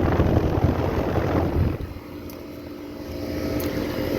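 Small Goodman air-conditioner condenser running, with a Copeland reciprocating compressor. A loud rushing noise of air over the microphone for about the first two seconds gives way to the unit's steady multi-tone hum, which slowly grows louder again near the end.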